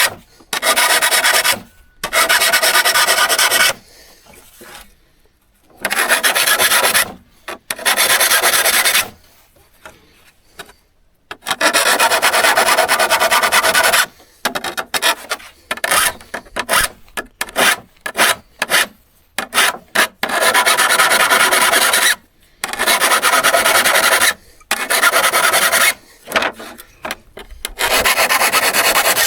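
Rasping strokes worked by hand on the steel of an old hand saw. Long strokes of a second or two with pauses between, then quicker, shorter strokes from about halfway through.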